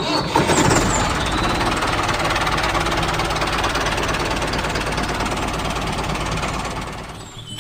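Small engine of a DIY mini tractor running with a rapid, steady rattling clatter, fading out near the end.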